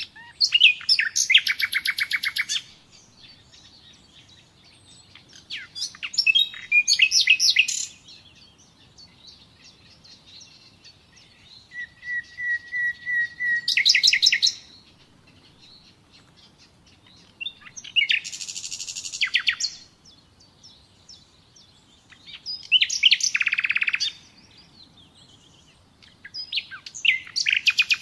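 Nightingale singing: six separate song phrases of about two seconds each, spaced by pauses of two to three seconds, made of fast repeated notes and trills. In the middle phrase a long steady whistle leads into a rapid run of notes.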